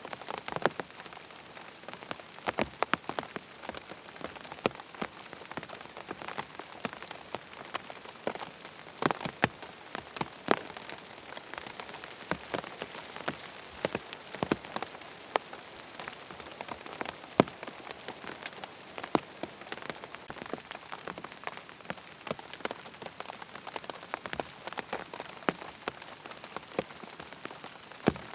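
Steady rain falling on a surface, with many sharp ticks and drips of single drops scattered irregularly over an even hiss.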